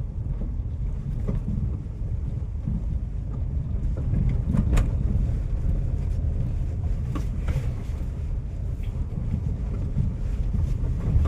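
Hyundai car driven over a rough road, heard from inside the cabin: a steady low road rumble with a few faint knocks and rattles from the bumps, the clearest about four and a half seconds in. The steering column gives no knock, its reduction gear having just been repaired with a new worm shaft and fresh grease.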